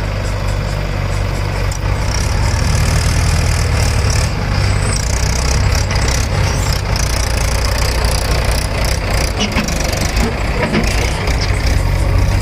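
Heavy diesel engines of a JCB 3DX backhoe loader and a Mahindra 585 DI tractor running steadily at a low, even throb, growing louder about two seconds in, with scattered knocks and clatter over it.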